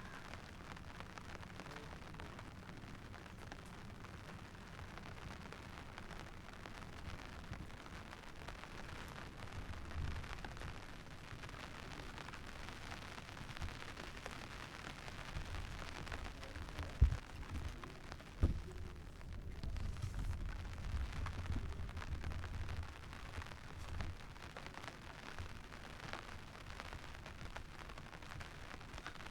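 Steady rain hiss outdoors with a low rumble that swells through the middle. Two sharp thumps come about a second and a half apart near the middle.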